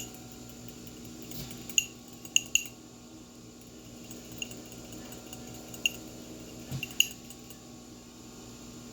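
A fork whisking egg wash in a bowl, clinking sharply against the side about six times at uneven intervals.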